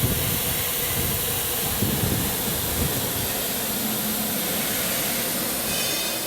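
ATC CNC router running: a steady hissing machine noise with a faint hum underneath and a few low knocks.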